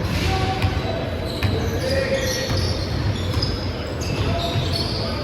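Balls bouncing and thudding on a hall floor during a game, with players' voices in the background.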